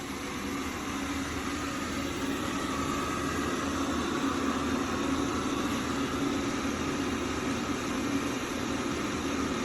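AIRROBO T20+ robot vacuum cleaning, its suction fan and brushes running with a steady whir and a low hum, growing a little louder in the first second.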